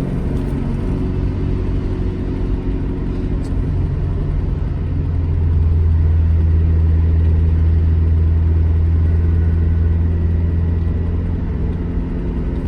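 Alfa Romeo GT Junior's twin-cam four-cylinder engine running at steady revs on the road, growing louder for a few seconds midway, then easing back.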